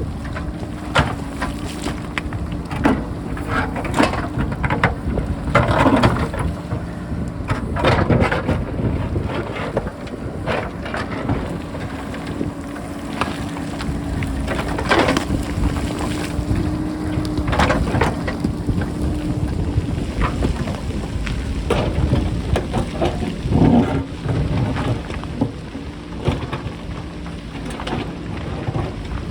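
JCB backhoe loader's diesel engine running steadily under load while rock is dug and moved, with repeated clattering knocks of rocks and wind buffeting the microphone.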